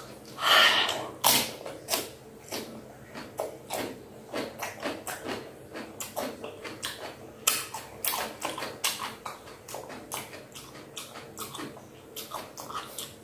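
Close-up crunching of a raw cucumber being bitten and chewed: a loud crisp bite near the start, then a steady run of wet crunches from chewing.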